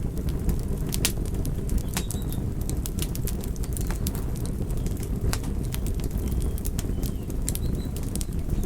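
Campfire burning: a steady low rush with frequent irregular sharp pops and crackles from the burning wood.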